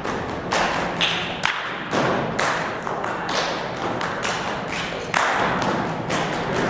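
Rhythmic percussion: sharp hits, like claps or drum strikes, about two a second with thuds beneath.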